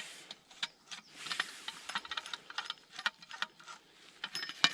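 Metal folding shovel being folded and locked: a string of irregular metal clicks and rattles from the hinge and locking collar, with a scraping rasp about a second in and one sharp click near the end.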